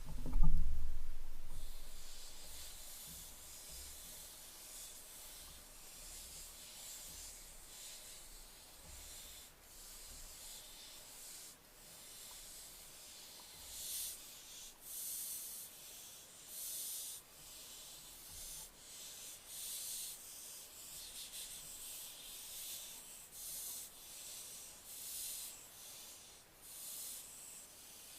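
Young barn owl giving repeated harsh hissing calls, the breathy hissing 'snore' of barn owl chicks, each burst under a second long and coming every second or two. A low thump about half a second in.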